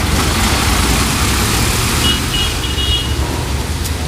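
A heavy truck's diesel engine running as it passes on the road, with a steady low rumble and tyre and traffic noise. About halfway through there is a quick run of four short, high-pitched beeps.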